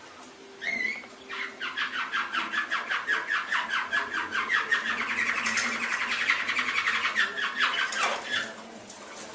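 Domestic canary singing: a short opening note, then a long song of rapid repeated trills, about seven or eight notes a second, lasting some seven seconds before it stops near the end.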